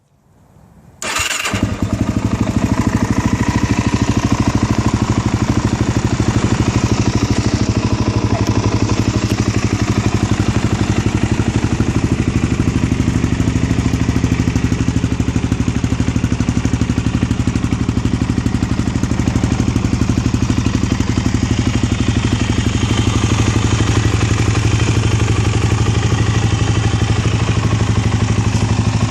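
A 2009 Suzuki LT-Z400 quad's fuel-injected single-cylinder engine, breathing through a full Yoshimura exhaust, is started from cold. There is a brief crank about a second in, then it catches and settles into a steady idle.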